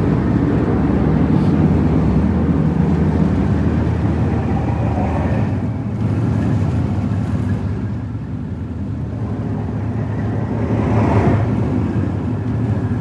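Passenger ferry's engines running with a steady low rumble as the boat comes alongside to moor.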